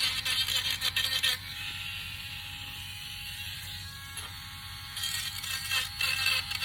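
Small power sanding tool working the edges of a wooden cutout, knocking off burrs. It scratches loudly against the wood for the first second and a half, runs free with a steadier, quieter hum for a few seconds, then bites into the wood again near the end.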